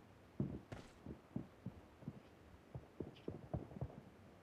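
Faint, muffled thuds from a shooter video game's soundtrack, a dozen or so at uneven intervals, low in pitch.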